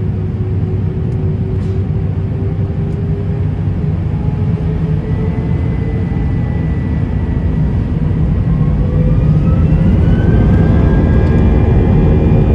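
Airbus A320's IAE V2500 jet engines heard from inside the cabin, a heavy steady rumble under whining tones that rise in pitch from about halfway through and get a little louder: the engines spooling up to takeoff thrust.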